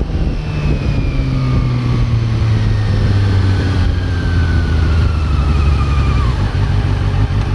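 Honda CB400 Super Four's inline-four engine running, its note falling slowly and steadily as the revs drop.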